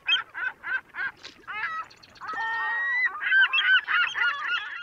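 Honking bird calls: short calls repeating about three times a second, a longer held call near the middle, then a busier run of overlapping calls that cuts off suddenly at the end.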